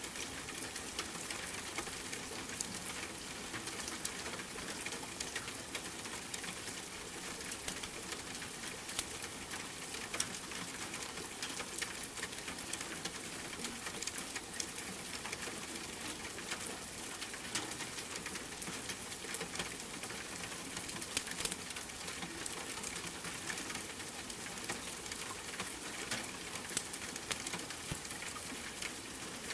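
Steady rain with a wood fire crackling: an even hiss under frequent small sharp pops.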